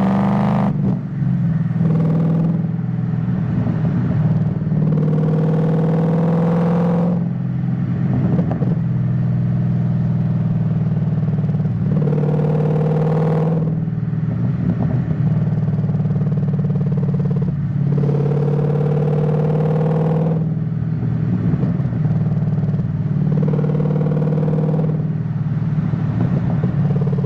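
Ford Mustang GT S197 V8 engine running while driving, a steady, loud exhaust note whose pitch climbs slowly and breaks several times, every few seconds.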